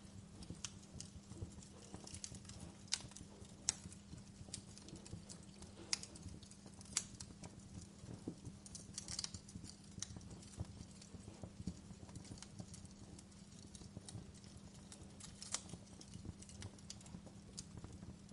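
Wood campfire crackling, with irregular sharp pops and snaps, a few louder than the rest, over a low steady hum.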